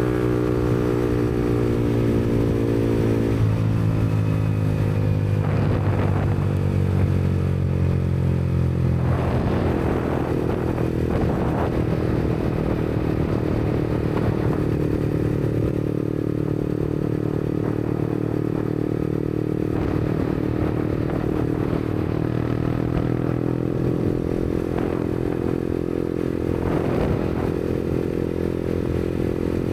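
Yamaha MT-125's single-cylinder four-stroke engine running through an aftermarket Black Widow exhaust while riding. The engine note falls over the first few seconds as the bike slows, then holds fairly steady at a cruise, climbing a little again late on.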